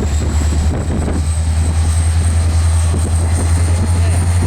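EMD diesel locomotive engine running under power, a steady low drone with a thin high whine that slowly rises in pitch.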